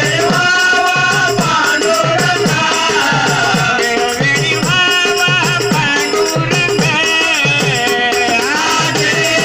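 Marathi devotional bhajan music: a melody over a steady drum beat with jingling, rattling percussion.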